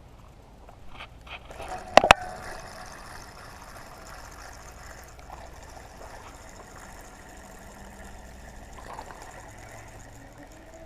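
Steady trickle of flowing water, with two sharp clicks close together about two seconds in.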